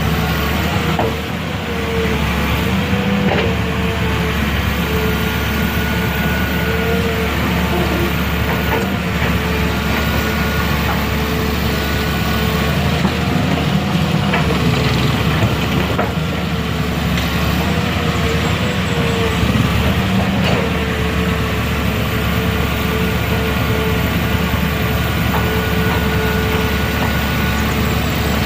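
Engine of a heavy vehicle such as a truck running steadily, with a steady whine over its low rumble.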